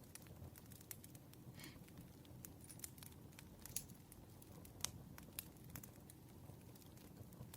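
Campfire crackling: scattered sharp snaps and pops over a low, steady rumble of burning, with two louder pops about four and five seconds in.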